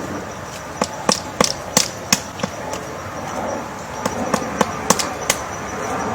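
A woodpecker pecking at wood with separate, irregular knocks, as when chiselling out a nest hole. It gives about six knocks in the first half and about five more after a pause.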